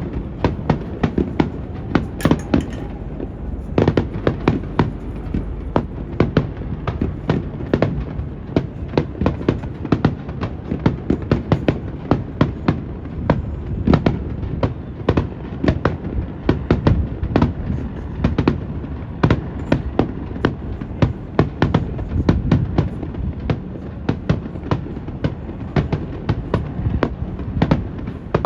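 Fireworks bursting in quick succession: many sharp cracks and bangs a second, with a steady low rumble of wind on the microphone underneath.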